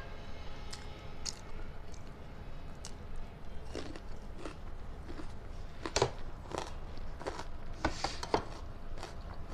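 A person chewing and biting food, with irregular crunches and mouth clicks that grow busier after the first few seconds and are loudest about six and eight seconds in, over a faint steady low hum.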